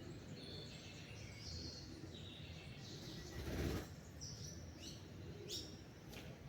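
Small songbirds chirping and twittering in short, high notes, over a soft background hiss. About halfway through, a brief rush of noise is the loudest sound.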